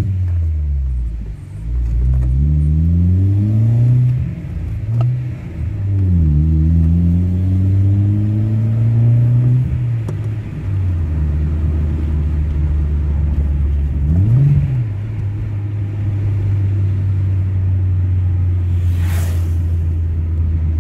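Honda Fit 1.4's four-cylinder engine breathing through an aftermarket sport exhaust, heard from inside the cabin while driving. It revs up twice, rising in pitch with drops in between, then runs steadily at cruising speed with one short rev blip past the middle.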